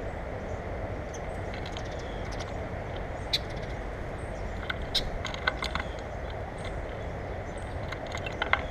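Birds at a feeder: a few sharp taps and faint short chirps over a steady background rush.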